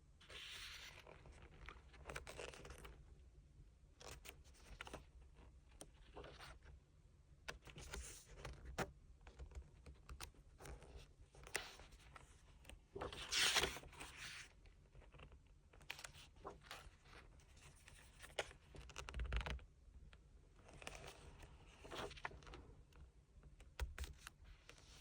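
Paper and plastic rustling, sliding and scraping as a K-pop photobook album and its inserts are handled, with a louder tearing rasp about halfway through.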